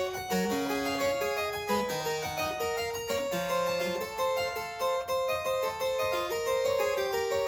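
Harpsichord playing a Baroque keyboard piece: a quick run of plucked notes over a moving bass line.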